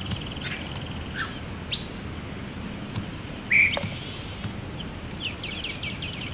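Songbirds chirping and trilling, a series of short high calls over a faint steady background, with one louder chirp about three and a half seconds in.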